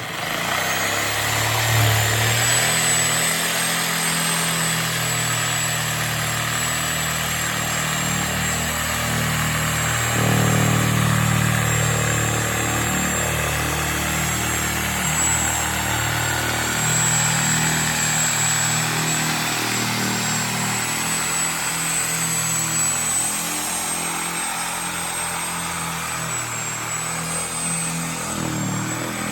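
Sawzall reciprocating saw with a 6-inch metal blade running steadily, cutting through the rubber sidewall of a car tire. The motor gives a high steady whine over the low chatter of the blade strokes.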